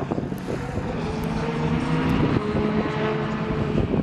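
Steady engine drone with several held tones over a noisy rush.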